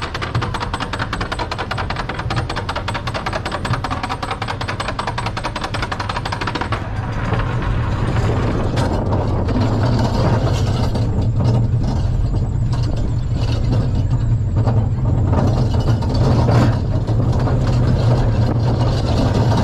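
Flying Turns bobsled coaster train running on its wooden track: a rapid, even clatter of clicks for about the first seven seconds, then a steady low rumble that grows louder, with a few separate knocks.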